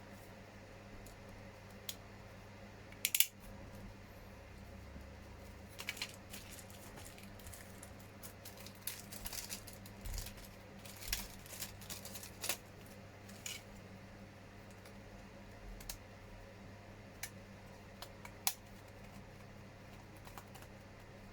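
Scattered clicks and taps of small hard plastic model parts being handled and pressed into place by hand, the loudest a sharp double click about three seconds in and a busy run of clicks in the middle, over a faint steady hum.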